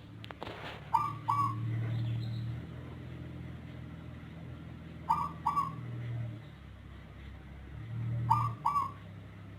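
Zebra dove (perkutut) calling: a pair of short, clear cooing notes, repeated three times about every three and a half seconds. The call is of a strain whose voice differs from local and Bangkok perkutut.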